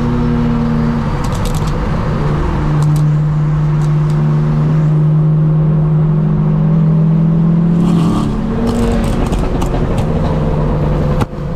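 Car engine running loud at steady high revs, its pitch shifting in a few steps, with a few sharp ticks around it.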